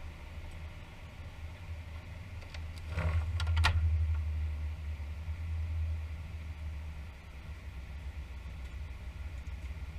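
Steady low rumble of an Airbus A320 cockpit. It swells louder for a few seconds about three seconds in, with a few sharp clicks at the start of the swell.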